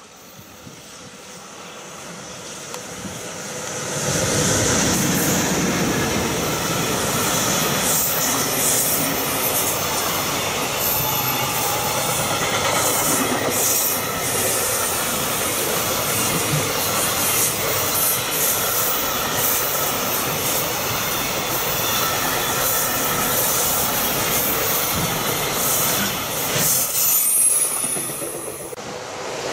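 EH200 electric locomotive approaching and passing at the head of a long container freight train, the sound rising over the first few seconds. The container wagons then roll by steadily for over twenty seconds, wheels clattering with a few brief high squeals, and the sound falls away near the end as the tail of the train passes.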